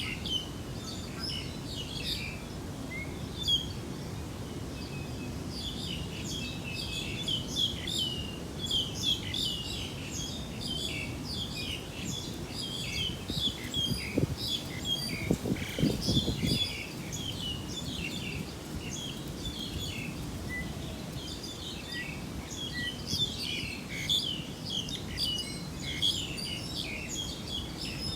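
Many small birds chirping and twittering continuously over a steady low background noise, with a brief low rumble about halfway through.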